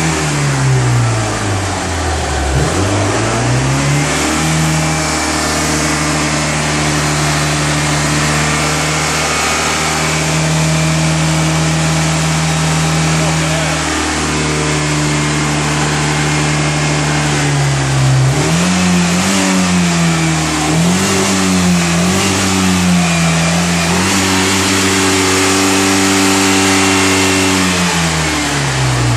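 Moskva-2 motorboat's engine, fitted with a new muffler, running steadily. Its pitch drops and comes back up about two seconds in, rises and falls with several quick throttle blips past the middle, and sinks near the end.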